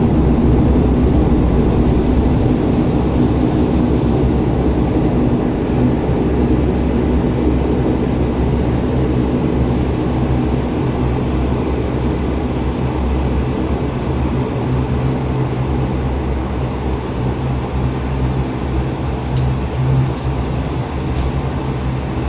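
Bombardier Dash 8 Q400 turboprop, its Pratt & Whitney PW150A engines and propellers droning in the cabin with several steady low tones, easing slowly in level.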